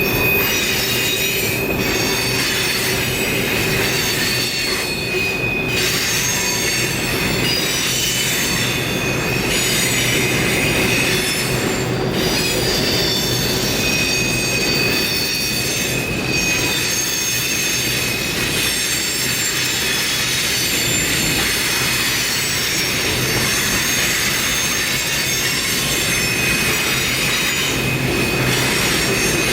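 Train cars rolling past, their steel wheels squealing on the rails in steady high-pitched tones over a continuous rumble, with a few knocks from the wheels.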